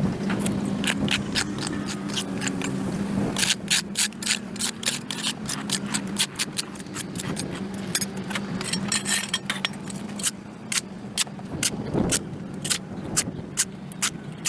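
Hand tool scraping packed dirt and grass off a concrete sidewalk: a run of sharp, irregular scrapes and knocks, two or three a second. A steady low hum runs under the first half and fades out.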